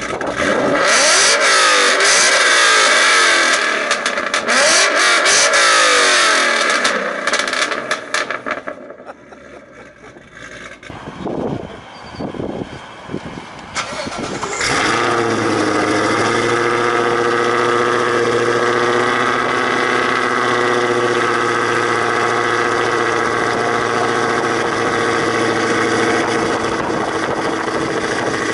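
Ford Mustang 5.0 V8 with a custom exhaust being revved hard, its pitch rising and falling quickly over and over for several seconds. It then drops back to quieter running with a few short blips. About halfway through it surges up sharply again and holds a steady, loud note.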